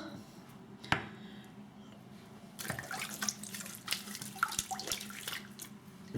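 A single knock about a second in, then about three seconds of irregular wet splashing and squelching from water and shaving lather being handled.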